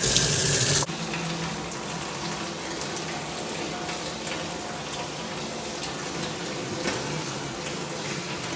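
Water running from a tap: a loud rush for about the first second, then a steadier, quieter flow.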